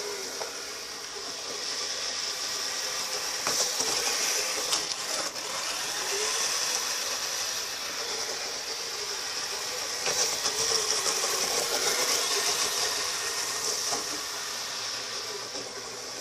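Twin Traxxas Titan 380 brushed electric motors of a modified Kyosho Blizzard RC tracked vehicle whining as it drives, with gear and track noise. The pitch wavers with the throttle, getting louder about four seconds in and again for a longer stretch about ten seconds in.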